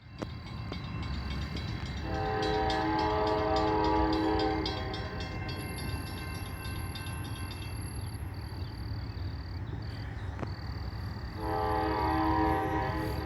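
Second-generation Nathan K5LA five-chime air horn on a CSX AC4400CW locomotive sounding two long blasts, the first about two seconds in and the second near the end, over the steady low rumble of the passing train.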